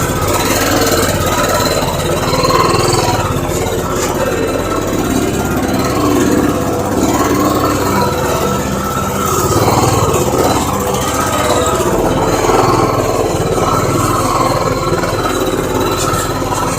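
Motorcycle engine running steadily at low revs, rising and falling slightly.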